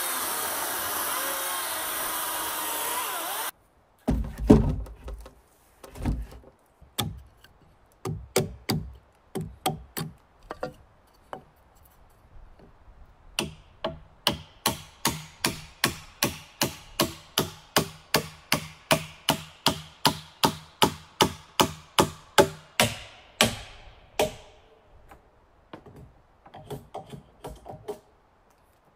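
A power tool runs for a few seconds and cuts off abruptly. After a few scattered knocks, a hammer strikes wood in a steady run of blows, about two a second, for roughly ten seconds, then stops.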